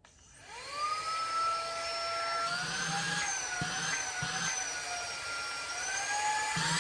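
XREXS cordless handheld vacuum cleaner switched on: its motor spins up to a high, steady whine, with the pitch creeping up slightly twice.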